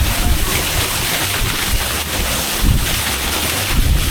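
Steady rush of a large waterfall heard close up, with wind and spray buffeting the microphone in low thumps.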